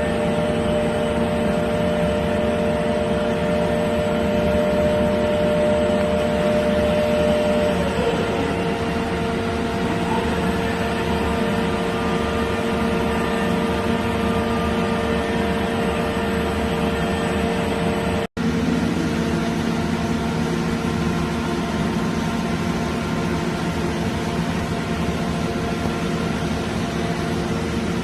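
Mitsubishi MAF horizontal floor-type CNC boring mill running: a steady machine hum with several whining tones. One whine drops in pitch about eight seconds in. The sound cuts out for an instant about two-thirds of the way through, then another whine slides up in pitch.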